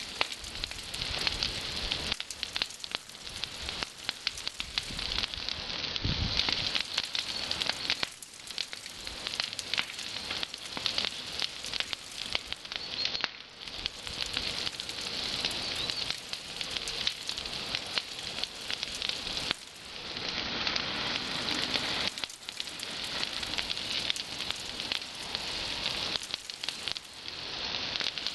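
Bonfire of pruned actinidia (kiwi vine) cuttings burning, with a steady dense crackle and hiss of small twigs catching.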